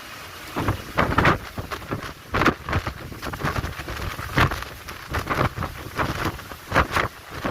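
Heavy rain falling, with irregular loud gusts of wind buffeting the microphone about once a second.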